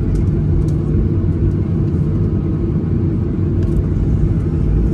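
Airliner cabin noise: a steady, loud low rumble of the jet engines and airflow, with a few faint ticks of cabin fittings.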